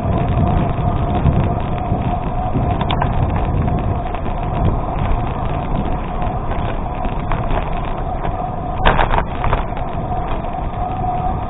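Gravel bike riding on an unpaved road: wind buffeting the microphone and tyres rumbling over the gravel, with a steady faint tone. A brief clatter about nine seconds in.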